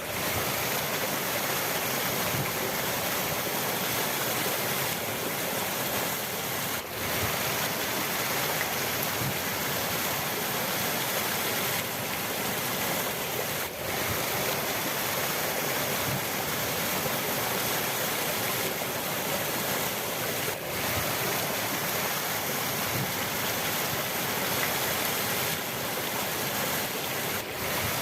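Rushing river water, a steady full hiss and rumble, with a brief dip in level about every seven seconds.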